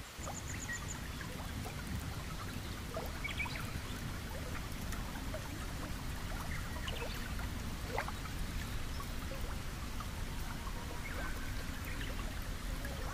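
Shallow stream water trickling and babbling steadily, with a constant low rumble underneath.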